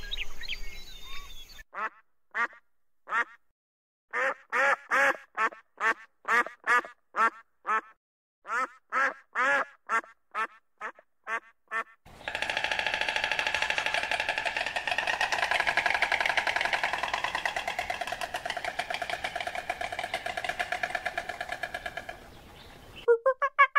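Short quack-like bird calls repeated in bunches, about two a second. About halfway through they give way to a long, continuous buzzy run of rapid calls, which stops about a second before the end, when short calls start again.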